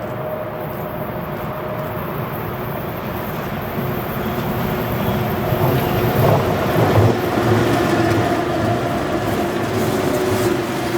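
Freight train running by, a steady noise of wheels on rails with a faint steady hum, growing louder about four seconds in.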